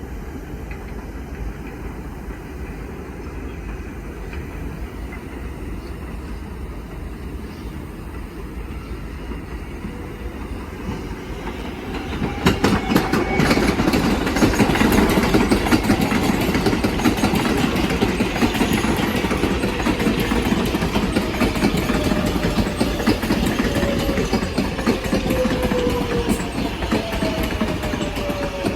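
IRT subway train (a 4 train) pulling in: a steady rumble that gets much louder about twelve seconds in, with wheels clattering over rail joints, then a falling whine from the motors as the train slows.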